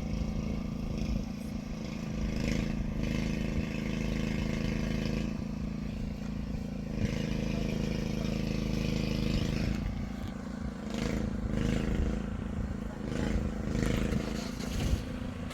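A truck's engine running steadily, with a few brief knocks and clatter over it.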